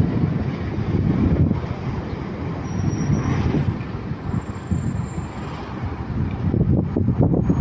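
Airbus A321neo jet engines running, a loud low rumble that eases off somewhat in the middle and swells again near the end.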